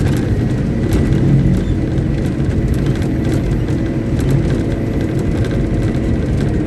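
Diesel engine of a Caterpillar 777D haul truck, a V8 Cat 3508B, running steadily during a stationary ground test, with a deep, even hum.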